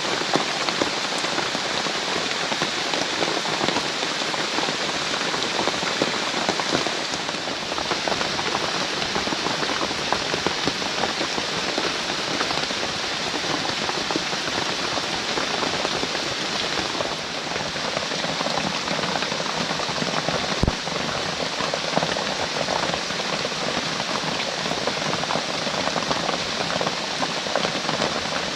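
Heavy rain falling steadily: a dense hiss of drops flecked with many small sharp drop hits. There is one brief dull knock about two-thirds of the way through.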